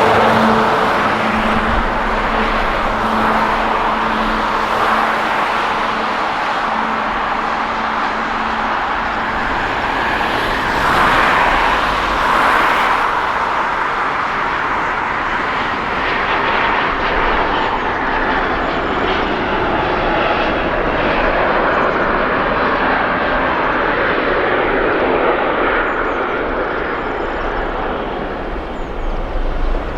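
Jet airliner engines running loud and steady, a broad rushing noise. A low hum fades out in the first third, and the high hiss falls away about halfway through as the aircraft moves off.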